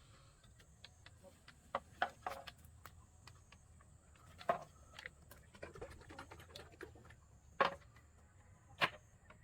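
Irregular sharp knocks and clicks, a few loud ones among many faint ticks: the loudest come about two seconds in, around the middle, and twice near the end.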